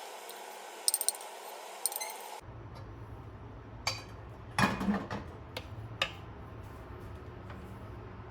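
Kitchenware clinking while sweet peas are cooked in sugar syrup. There are a few light, sharp clinks over a steady hiss, then, after a cut, a few more clicks and one louder clunk over a low hum.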